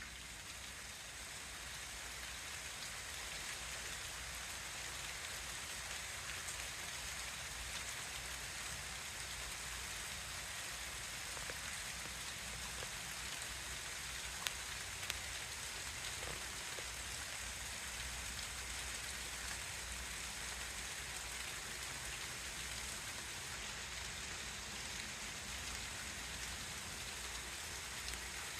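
Steady rainfall, with a couple of louder single drops about halfway through.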